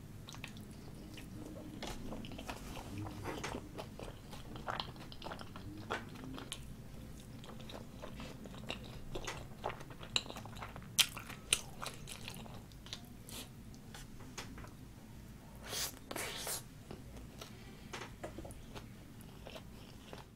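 Close-miked chewing of a mouthful of hash brown mashed with tteokbokki sauce: soft wet mouth sounds and small crunches, with scattered clicks, two sharp smacks about eleven seconds in and two short noisy bursts later on.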